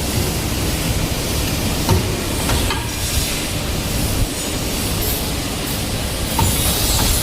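DW38CNC 5-axis CNC pipe bending machine running: a steady mechanical din with hiss, broken by a few short, sharp clicks.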